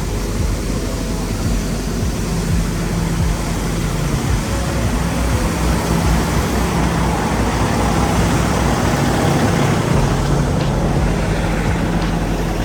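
Truck's diesel engine running steadily, with a constant low hum.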